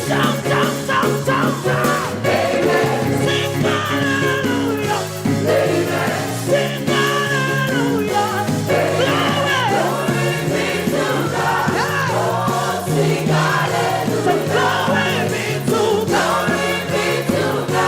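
Live gospel praise music: a church band with bass and drums playing a steady beat while singers and a choir sing over it.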